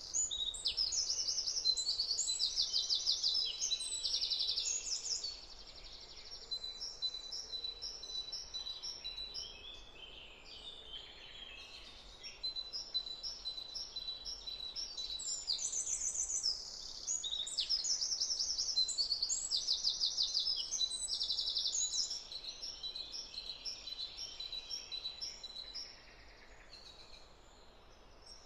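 Songbirds singing in spring woodland: rapid trilled and chirping songs, loudest in two long spells near the start and again past the middle, with softer calls between.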